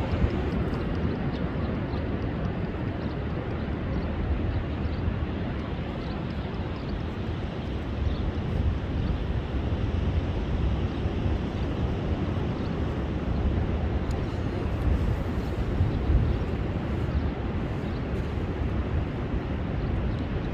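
Rough sea surf breaking on a beach in storm conditions: a steady low rumble of waves and wind that swells and eases a little.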